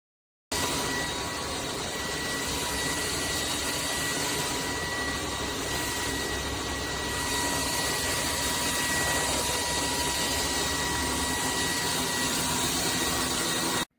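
SKIWEC cordless stick vacuum cleaner running steadily: a loud rushing of air with a steady high motor whine. It cuts in suddenly about half a second in and cuts off just before the end.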